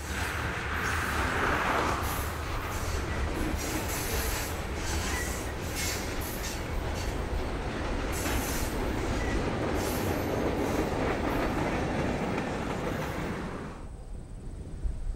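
Freight train of covered hopper cars rolling past close by on jointed rail: a steady rumble with the wheels clicking over the rail joints, and a squeal in the first couple of seconds. About 14 s in it cuts off suddenly to a much quieter, distant sound.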